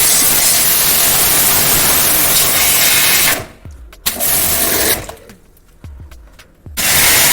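Loud steady rushing hiss that stops twice, first for about half a second and then for nearly two seconds, before starting again; a few faint ticks sound in the gaps.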